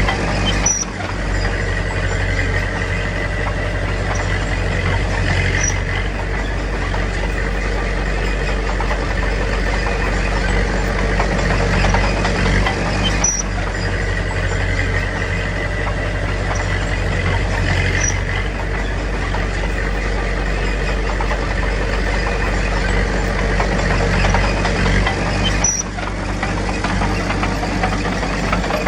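Heavy diesel engine of earthmoving machinery running steadily, with short faint high clinks every few seconds.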